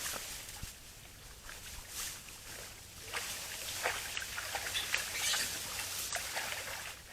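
Wild boars moving about close to the camera: irregular rustling and scuffling, busier and louder from about three seconds in.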